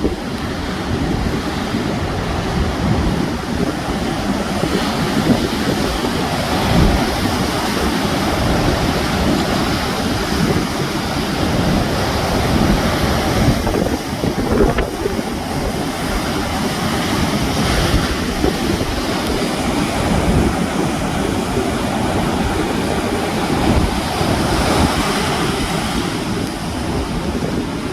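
Sea waves breaking and washing on the shore in a steady surge, with wind buffeting the microphone.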